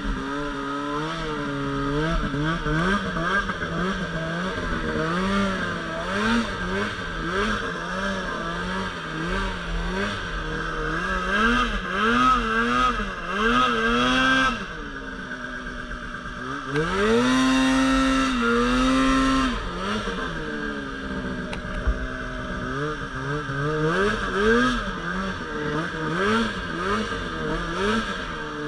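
Polaris RMK Pro 800 two-stroke snowmobile engine revving up and down over and over as it is ridden, with one longer, higher rev about two-thirds of the way through.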